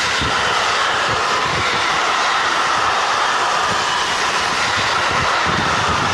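Freight train of tank wagons rolling past: a steady, loud rush of steel wheels on rail that holds even throughout.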